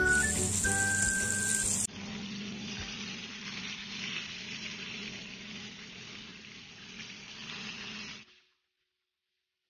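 Background music for the first two seconds, then flour-dusted salmon steaks frying in oil in a pan with a steady sizzle that cuts off suddenly near the end.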